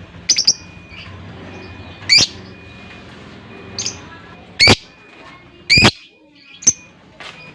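Lovebird giving short, shrill single calls, about seven of them spaced roughly a second apart, one early on doubled.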